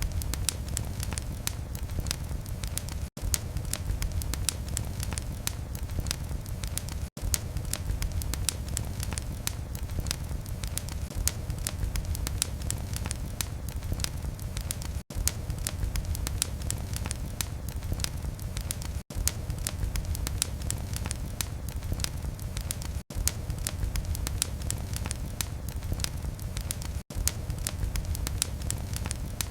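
Wood fire in a fireplace crackling, with dense sharp pops and snaps over a low steady rumble of the flames. There is a momentary gap in the sound about every four seconds.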